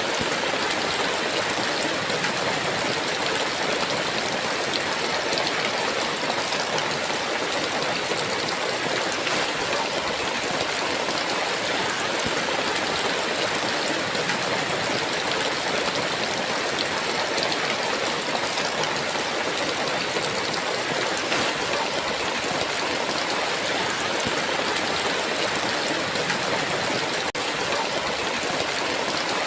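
Heavy rain falling in a steady, unbroken downpour, an even hiss with no thunder.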